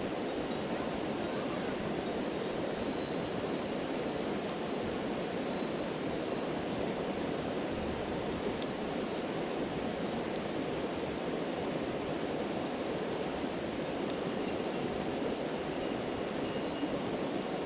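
Steady rushing of a stream, with a few faint crackles from a campfire.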